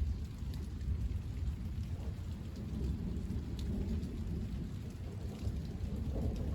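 Thunder rumbling continuously with rain falling, with a few faint drop ticks on top.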